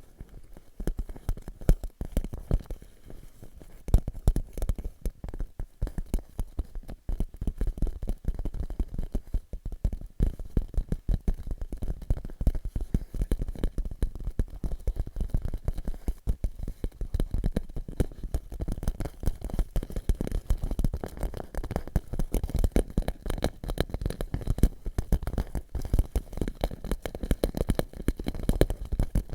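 Fingertips tapping rapidly on a clear plastic pouch, a dense patter of soft taps and light crinkles, thinner for a moment about two seconds in.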